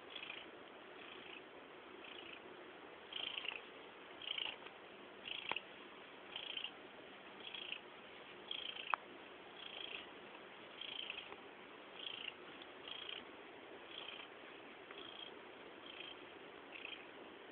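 An Abyssinian cat purring loudly, the purr pulsing about once a second with each breath. Two short sharp clicks are heard about five and nine seconds in.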